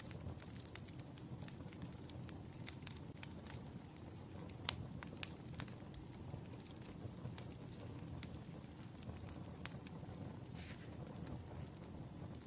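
Wood fire crackling: irregular sharp snaps and pops over a low steady rumble, with one louder snap a little before halfway.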